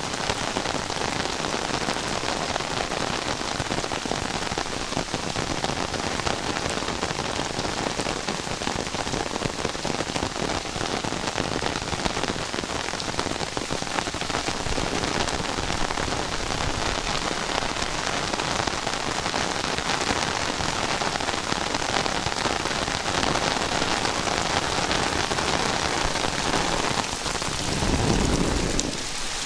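Heavy rain falling steadily, a dense even hiss of drops. Near the end a low rumble swells for about two seconds.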